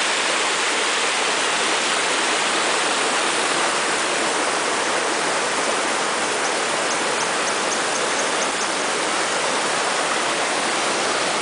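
Steady rushing of falling water from a waterfall about 80 m high, an even noise with no break. A short run of faint high ticks sits over it about two-thirds of the way in.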